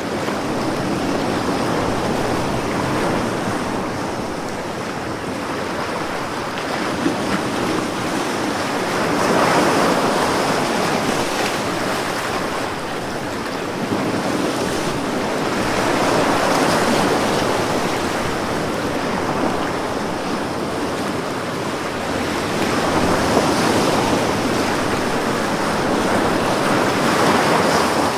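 Ocean waves breaking on a shore: a steady wash of surf that swells every six or seven seconds as each wave comes in and rolls back.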